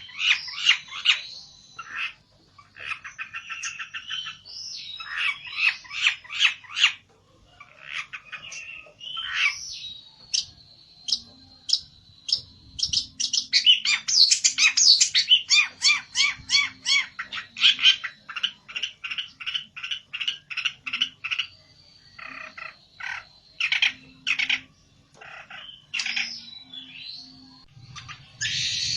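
A pelentet songbird singing in agitated fighting song: fast runs of sharp repeated notes and trills with short pauses between bursts, over a thin steady high whistle at times.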